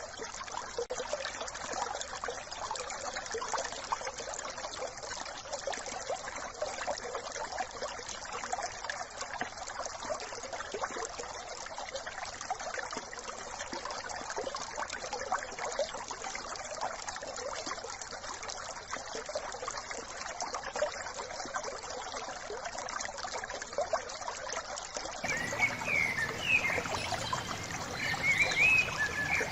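A small brook trickling and babbling steadily over stones. Near the end, songbirds chirp in a few quick bursts over the water.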